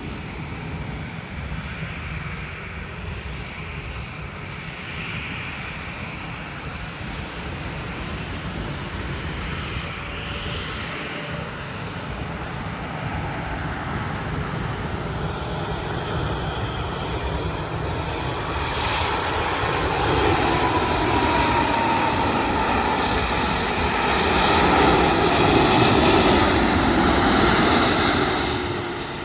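Jet airliner passing low overhead: the engine noise builds steadily over about ten seconds to a loud peak, with a whine running through it, then falls away quickly near the end.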